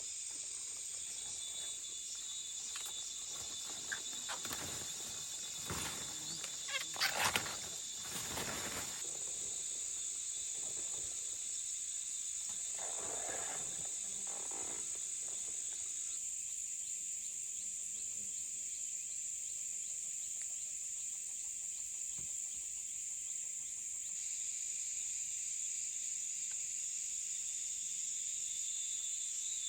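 Steady high-pitched insect chorus, with a few brief louder sounds about seven seconds in and again around thirteen seconds.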